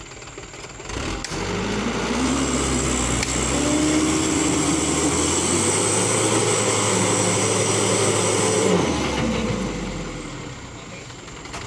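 Mitsubishi Canter truck's diesel engine revved hard about a second in and held at high revs under heavy load for some seven seconds, then dropped back toward idle. The truck is straining to reverse out of mud and fails to get free.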